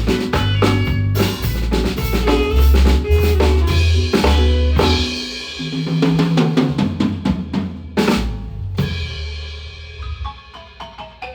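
Drum kit playing a busy beat and fills over a bass line, as the band plays through a sound check. About eight seconds in there is a cymbal crash that rings away as the playing dies down.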